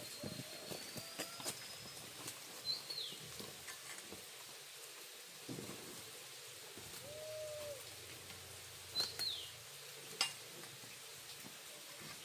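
Birds calling with short falling chirps, twice, over a steady faint hiss, with a few sharp clicks.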